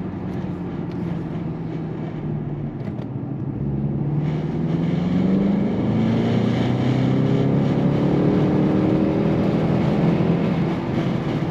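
BMW 128ti's two-litre turbocharged four-cylinder engine heard from inside the cabin while driving. It is a steady drone at first, then from about four seconds in it rises in pitch and gets louder as the car accelerates.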